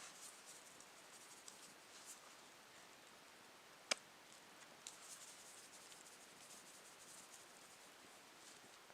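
Near silence with faint light scratching and ticking, and one sharp click about four seconds in.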